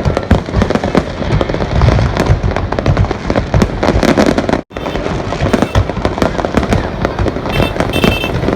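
Fireworks display: a dense, continuous barrage of bangs and crackles with deep booming underneath, cut off for an instant about halfway through before resuming.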